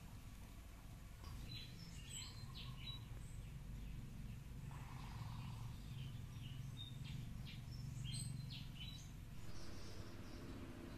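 Faint short bird chirps in two clusters, a couple of seconds in and again past the middle, over a low steady hum.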